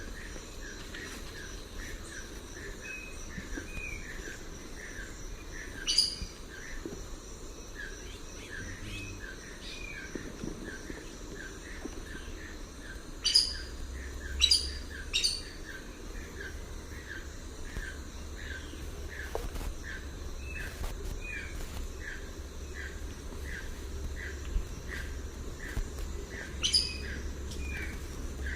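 A bird calling a short note over and over, about two a second, with a few sharp clicks standing out above it and a steady high insect-like hum underneath.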